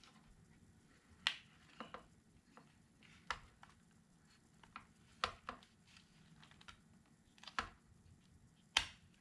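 Sharp plastic clicks and taps, about seven of them at irregular intervals, as instrument-cluster parts are handled and pushed into place in the plastic housing.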